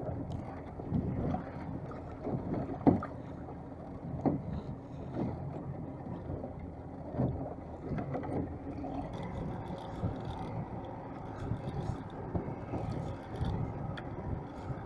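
A small boat on the water: a steady low drone with irregular knocks and splashes against the hull.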